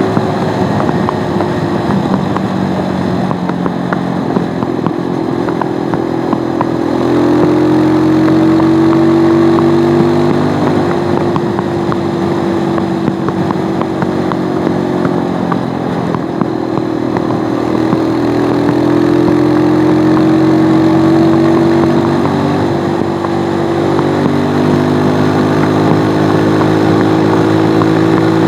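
Stels Flex 250 motorcycle engine and exhaust under way, heard from on board. The engine note climbs and drops several times as the revs rise and fall.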